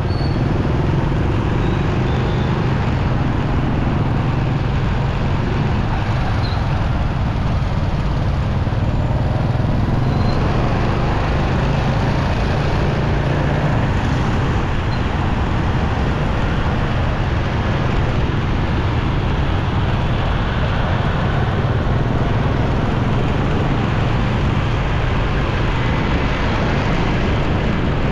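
Motorcycle ride through traffic: a steady mix of the bike's engine, road and wind noise, and the surrounding traffic, with no distinct events standing out.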